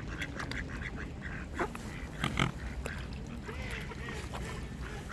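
Waterfowl, among them swans, calling in a string of short honks and grunts.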